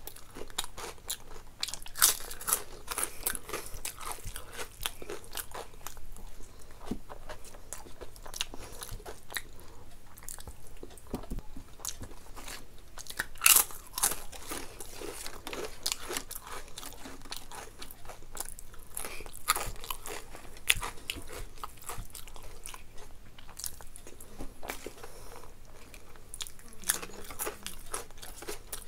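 A person biting and chewing crunchy food: a dense, irregular run of crisp crunches with a few sharper, louder bites, the loudest about halfway through.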